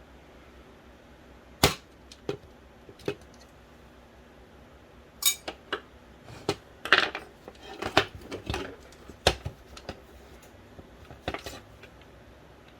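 Scattered clicks, taps and clatter of small plastic and metal parts and tools being handled while an Original Xbox Philips DVD drive is taken apart. There is a sharp knock about one and a half seconds in, a busier run of clicks and taps through the middle, and a few more near the end.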